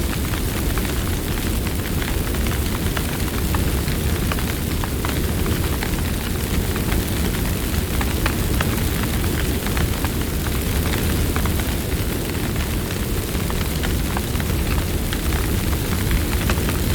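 Campfire burning steadily: a constant low roar of flames with many small, irregular crackles and pops from the burning wood.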